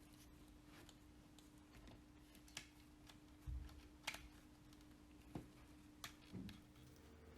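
A handful of light clicks and taps at irregular intervals, with one duller thump about halfway through, over a faint steady hum: small parts and tools being handled during work on a model car.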